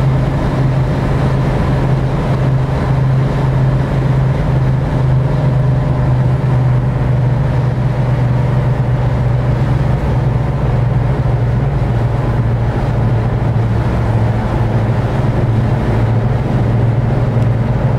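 1965 Chevrolet Corvair 500's air-cooled flat-six with dual exhaust, driving at a steady speed: an even, low engine drone that neither rises nor falls.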